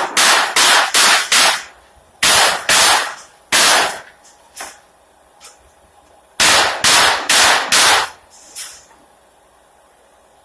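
Pneumatic nail gun driving nails into pallet boards: sharp shots in quick runs of about five, three and four, with a few fainter clicks between.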